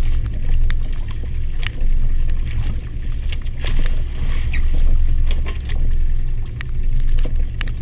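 Fishing boat's engine running with a steady low rumble, with scattered sharp clicks and knocks over it.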